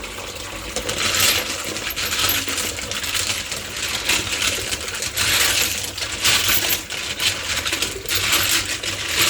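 Tumbled agate stones clattering and clinking against each other as they are stirred and handled by hand, in several swelling bursts.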